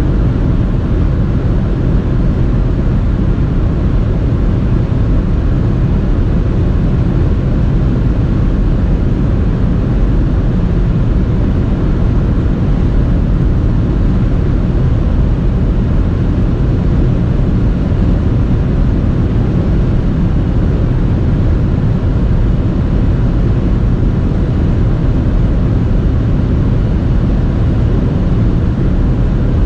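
Nissan Juke 1.0 DIG-T at high, steady speed: its three-cylinder turbo petrol engine under the steady rumble of wind and road noise, with no gear changes.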